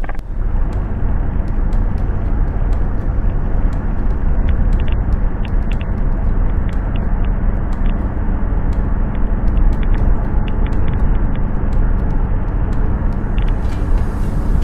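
A motor vehicle running steadily: a constant low engine hum and rumble, with scattered light clicks or rattles throughout.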